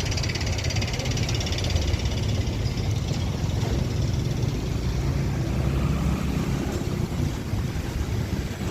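A vehicle engine running steadily on the road, with a constant low rumble and road and wind noise.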